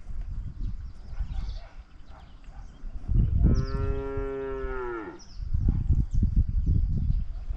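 One long, low animal call, held steady for about a second and a half and falling in pitch at its end, with low rumbling noise before and after it.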